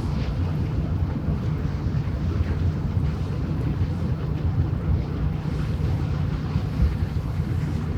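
Steady low drone of a passing ship's diesel engine, with wind rumbling on the microphone.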